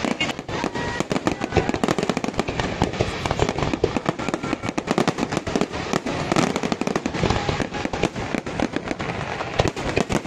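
Fireworks display: a dense, unbroken barrage of rapid bangs and crackles, many per second.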